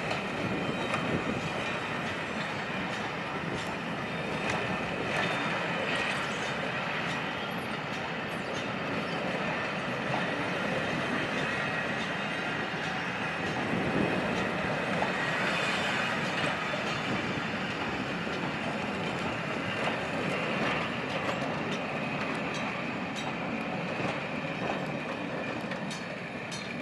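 Train of passenger coaches rolling slowly past, wheels clicking over rail joints with some thin wheel squeal. The sound eases off near the end as the last coach moves away.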